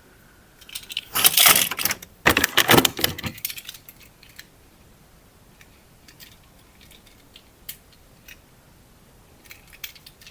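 Clattering, rattling handling noise in two dense bursts about a second and two seconds in, followed by a few scattered clicks.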